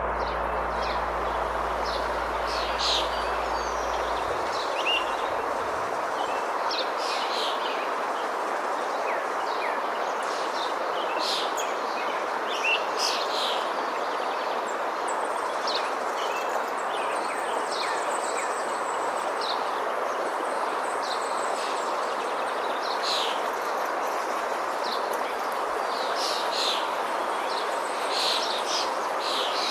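Birds chirping and calling, many short high chirps scattered throughout, over a steady rushing background noise.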